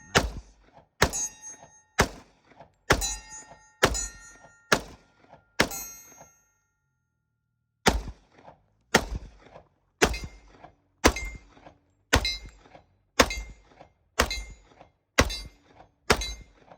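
.45 ACP pistol firing a steady string of shots, about one a second. There are seven shots, then a pause of about two seconds, then nine more. A faint ringing note trails some of the early shots.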